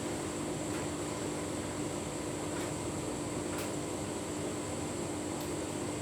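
Tumble dryer running steadily with a full load of bedding: an even motor and fan hum with the drum turning, and a few faint light ticks.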